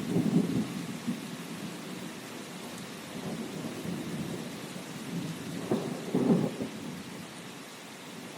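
Steady rain with thunder rumbling low twice, at the start and again about six seconds in.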